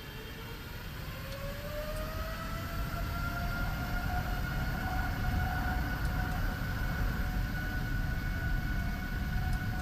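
Boeing 777 freighter's GE90 turbofan engines spooling up to take-off thrust, heard from the cockpit. A whine rises in pitch over the first few seconds and then holds steady, over a low rumble that grows louder.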